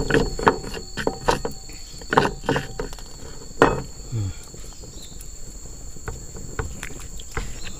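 Steady high-pitched insect chorus of crickets or cicadas, with a run of sharp clicks and soft knocks in the first four seconds, the loudest about three and a half seconds in.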